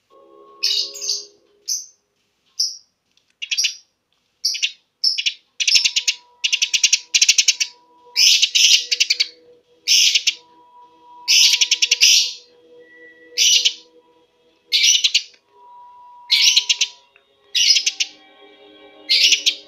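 Eurasian tree sparrow chirping fast and dense: repeated bursts of rapid, high chirps, each lasting under a second, with short pauses between.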